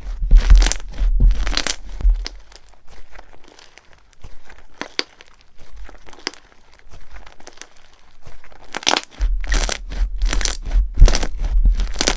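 Slime being worked by hand, with close-up runs of sharp crackling and popping. The crackling is loud for the first two seconds, thins out to quieter scattered pops, then grows loud again from about nine seconds in.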